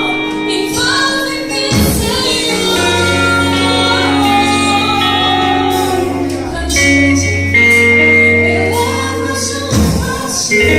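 Choir singing a worship song with instrumental accompaniment: long held chords over a bass line that changes every couple of seconds.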